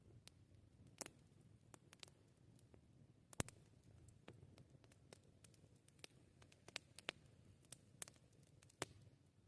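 Campfire crackling: quiet, irregular sharp pops and snaps of burning wood, the loudest about three and a half seconds in, over a faint low rumble.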